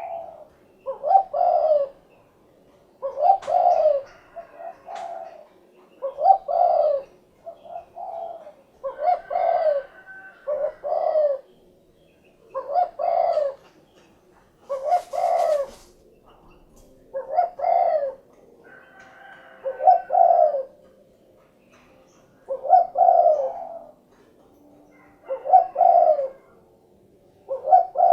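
Spotted dove (derkuku, tekukur) cooing its 'cukurukuk kuk geruk' song: a low phrase of a few notes, repeated about every two and a half seconds.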